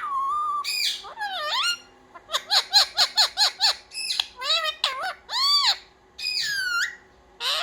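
Pet ringneck parrot calling: a quick run of about ten short chirps two to three and a half seconds in, then several longer calls that rise and fall in pitch.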